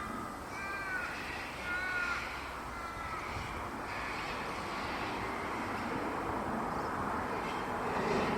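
Cockatoos calling: a few short, harsh calls that fall in pitch in the first couple of seconds, then a steady mass of raspy screeching.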